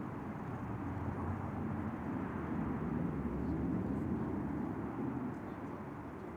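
Jet aircraft passing: a low, rumbling roar that builds over the first few seconds and fades after about five seconds.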